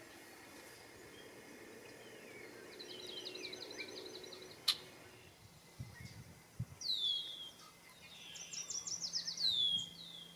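Male red-winged blackbirds singing, with two rapid trilled songs and several sharp downward-slurred whistles in the second half. A single sharp click comes about halfway through.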